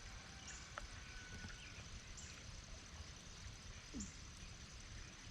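Faint creek ambience: low, steady flowing-water noise under a steady high-pitched thin tone, with a single short click about a second in.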